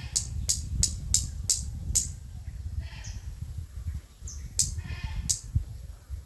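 Outdoor animal calls: short, sharp high chirps about three a second, stopping after two seconds and resuming near the end. Two short bleat-like calls come a little after halfway, all over a steady low rumble.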